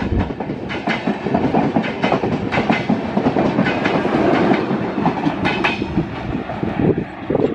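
Passenger train of LHB coaches running past on the rails, the wheels giving an irregular clickety-clack of knocks over the rail joints. The last coaches go by and the sound eases a little as the tail of the train moves away.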